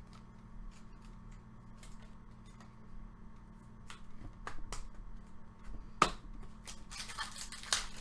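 Trading cards being handled by hand: scattered soft clicks as cards are flicked through, a sharp snap about six seconds in, and a rustle of cards sliding against each other near the end.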